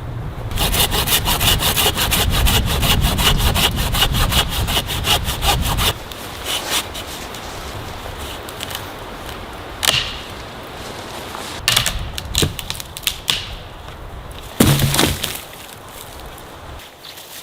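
A hand saw cutting through wood with quick, even strokes for about five seconds, then stopping. A few separate knocks and cracks of wood follow later.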